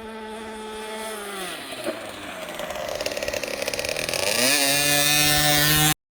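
Dirt bike engine running, its pitch dropping about a second and a half in, then climbing and growing louder as it revs up again near the end, before cutting off suddenly.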